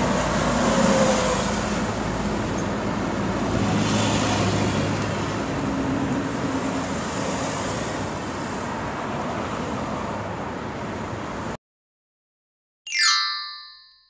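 Intro sound effect of a motorcycle engine running with a loud rushing noise, cutting off suddenly about three-quarters of the way through. After a brief silence, a short ringing tone sounds and fades out near the end.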